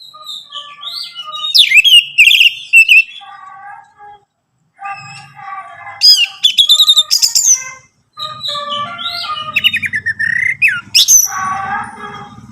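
Orange-headed thrush (anis merah) singing in loud, varied phrases of whistled glides and fast trills, broken by two short pauses. A harsher, buzzy chatter comes near the end.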